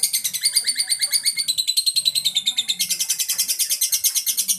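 Lovebird singing: a long unbroken chatter of rapid high chirps, about ten a second, that stops abruptly at the end.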